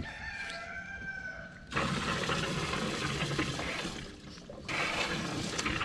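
Water running and splashing, as from a hose or tap, coming on about a second and a half in, pausing briefly, then running again.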